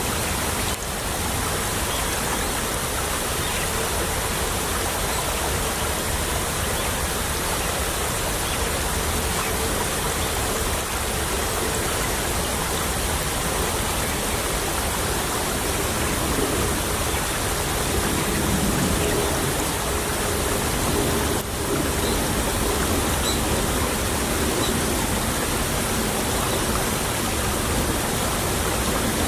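Shallow stream trickling and babbling: a steady, even rush of running water, dipping briefly twice.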